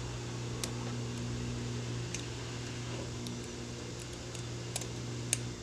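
A steady low electrical hum that cuts off suddenly near the end, with a few faint light clicks over it.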